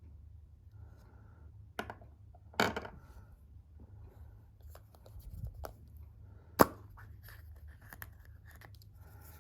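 Surprise egg wrapper being torn open and crinkled, with a few sharp clicks and snaps, the loudest about six and a half seconds in.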